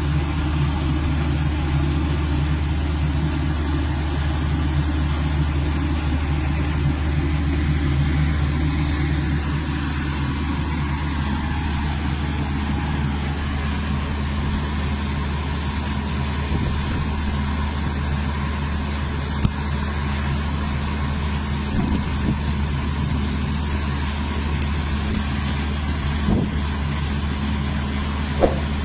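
A vehicle engine runs steadily with a low, even hum, joined by a couple of short knocks in the second half.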